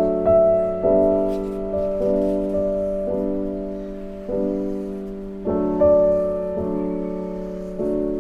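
Background piano music: slow, gentle chords struck about once a second and left to ring and fade.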